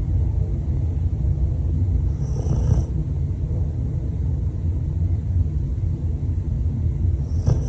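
A sleeping dog snoring: a steady low rumble, with a brief high whistle twice, about two and a half seconds in and again near the end.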